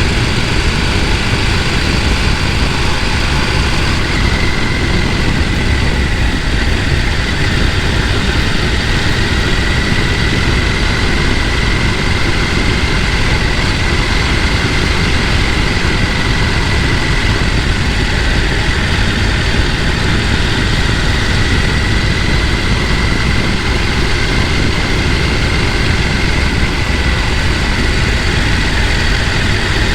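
Steady rush of a mountain stream. A faint, steady high tone joins about four seconds in.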